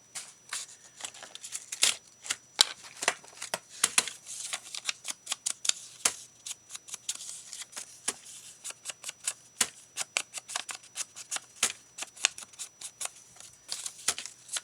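Rapid, irregular tapping and clicking of an ink pad being dabbed along paper edges, several taps a second.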